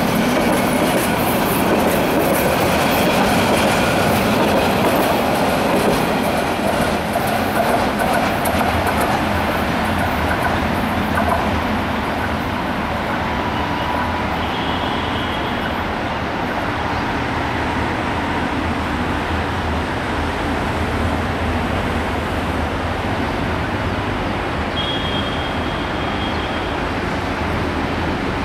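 Intercity passenger train's carriages rolling past on the line, wheels clattering on the rails. The clatter is loudest in roughly the first dozen seconds, then settles into a steadier, slightly quieter rumble as the train draws away.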